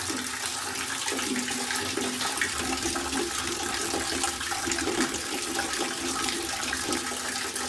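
Water running steadily and splashing, as from a tap filling a tub for hand-washing laundry.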